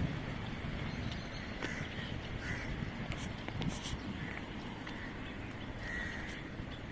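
Outdoor birds giving short calls, repeated every second or so, over a steady low background rumble.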